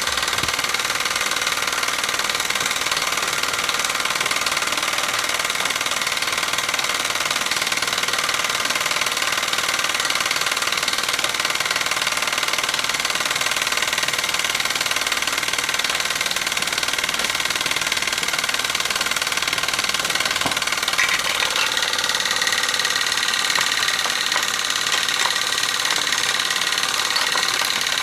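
A small homemade steam engine and an antique Robert Fulton engine running together, a steady mechanical clatter whose tone shifts about three-quarters of the way through.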